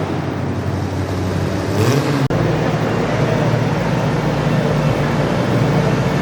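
Garden pulling tractor engine running hard and loud. Near two seconds in it revs up briefly and cuts out for an instant, then carries on steadily.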